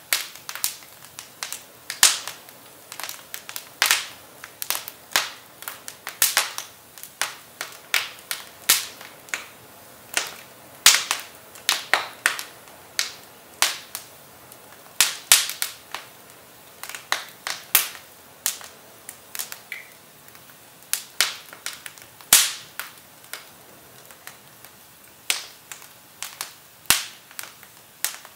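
Firewood burning in a fireplace, crackling with irregular sharp snaps and pops, a few each second, over a faint hiss.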